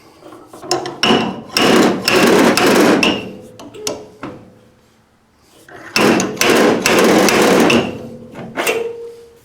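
Two bursts of rapid metal hammering on a car body panel during dent pulling: blow after blow, each burst lasting about two seconds with a pause between them.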